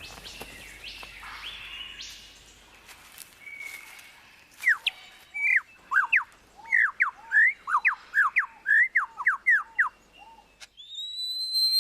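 Superb lyrebird singing: soft sweeping calls, then from about four seconds in a loud, rapid run of sharp whistled notes, about three a second. Near the end it changes abruptly to a long rising whistle.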